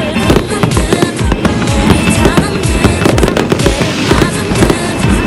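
Fireworks display: aerial shells bursting and crackling in rapid succession, bang after bang with no pause, with music playing alongside.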